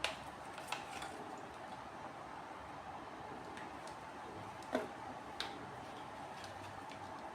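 A few light clicks and taps from small equipment parts being handled, the loudest about five seconds in, over a faint steady hum.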